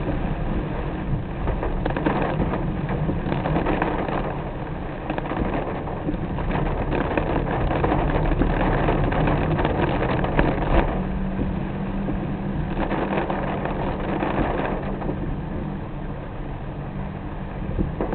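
Car driving through rain: steady engine and road noise with the hiss of rain and wet tyres, swelling now and then.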